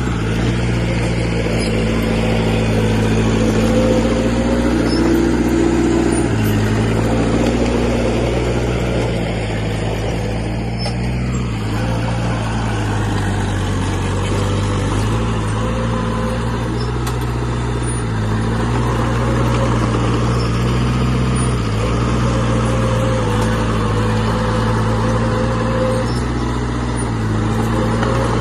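Heavy diesel engine of earthmoving machinery running steadily under work, its pitch shifting up and down a few times.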